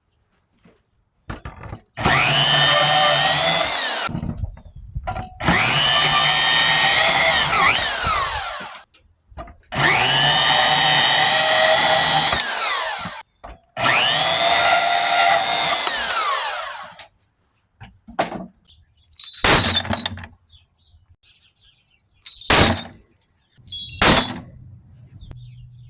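A bandsaw is run four times in quick succession, each run about three seconds long, its motor whine rising as it starts and falling as it stops while it cuts the tips off copper thermostat rods. After that come several sharp metallic clinks of small metal pieces.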